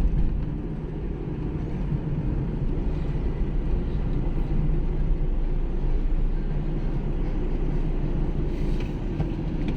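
A vehicle's engine running steadily: an even, low rumble with no sharp changes.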